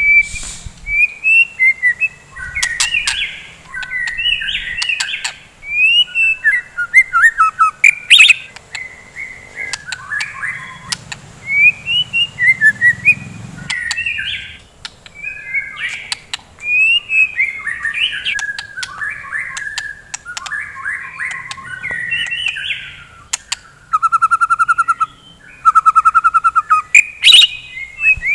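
White-rumped shama (murai batu) singing loudly and continuously: varied whistled phrases mixed with sharp clicks, and two fast rattling runs of repeated notes near the end.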